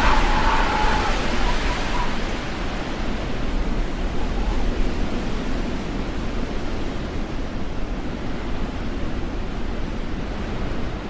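Strong storm wind blowing steadily, with a low rumble of gusts buffeting the microphone. A faint high squeal fades out within the first two seconds.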